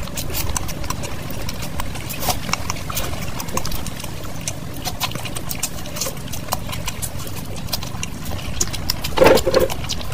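Close-miked eating: wet chewing and mouth smacks, many small clicks, from fried rice and sauced chicken pieces eaten by hand. One louder, fuller mouth sound comes about nine seconds in.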